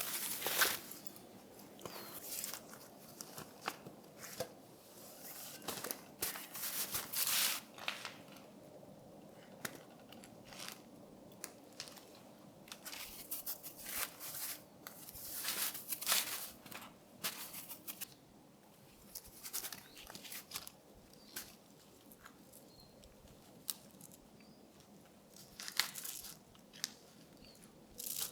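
Irregular crunching and rustling: short bursts spread unevenly, with pauses between.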